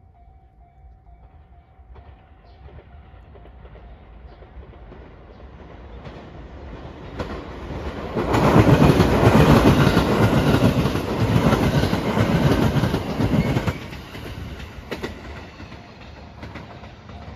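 Rapid Marine Liner electric multiple unit (JR West 223-5000 series with a JR Shikoku 5000 series car) approaching and passing, its wheels clacking over the rail joints. It grows louder through the first half, is loudest from about 8 to 14 seconds in, then fades.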